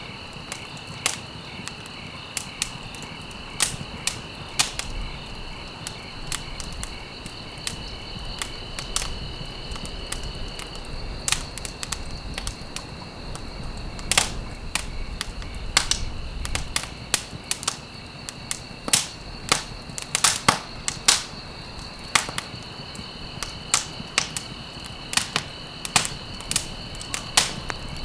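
Wood fire crackling in a fireplace: irregular sharp pops and snaps over a low steady rumble, with a quick cluster of pops about two-thirds of the way through. A faint steady high tone sits underneath and drops out for a stretch in the middle.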